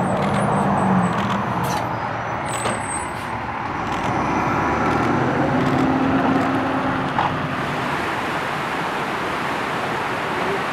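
A vehicle engine running steadily over a continuous rushing noise.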